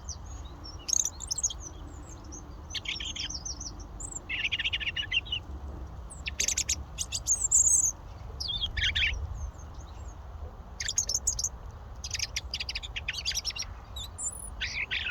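European robin singing: a string of short, high, warbling and twittering phrases, each under about a second long, with brief pauses between them.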